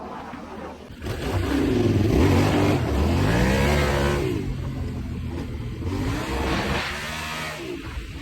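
Yamaha Ténéré 700's parallel-twin engine revving, loud from about a second in, its pitch climbing and falling in several swells.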